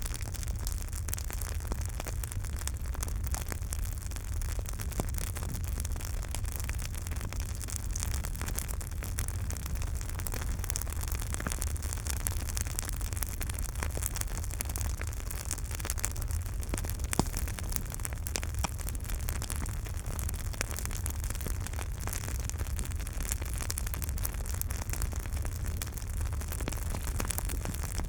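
Campfire burning, with a continuous crackle of small pops over a low rumble and hiss; one louder pop comes a little past the middle.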